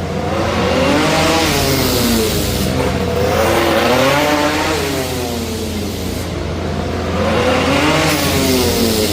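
An engine revved up and down three times, its pitch rising and falling smoothly each time over a steady low hum.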